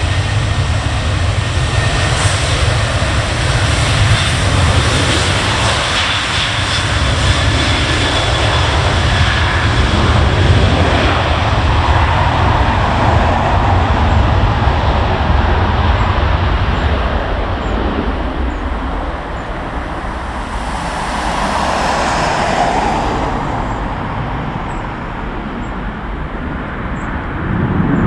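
Jet airliner's engines at takeoff power: a loud, steady rumble that eases and fades over the last several seconds as the aircraft climbs away.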